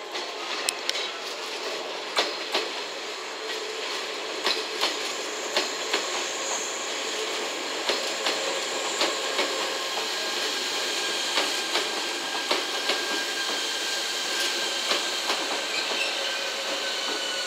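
JR West 381-series limited express electric train rolling slowly past, its wheels clicking sharply and irregularly over rail joints, with thin high tones that slowly fall in pitch as it slows.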